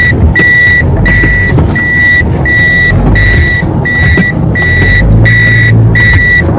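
A vehicle's reversing warning beeper sounds a steady, evenly spaced high beep, about one and a half beeps a second, as the vehicle backs into a parking spot. A low engine rumble runs underneath.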